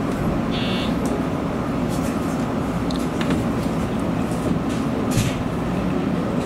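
Running noise of a Nishitetsu electric train heard from inside the cab as it moves slowly past a station platform: a steady low rumble with a few short clicks and knocks, and a brief high buzz about half a second in.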